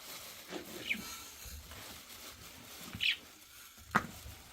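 A bird gives two short high chirps, about a second and three seconds in, then there is a sharp click near the end.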